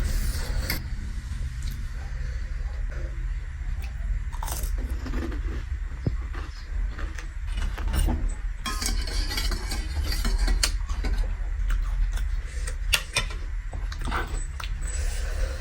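Close-miked eating sounds: chewing and biting with many short crunchy clicks and small clinks, over a steady low hum.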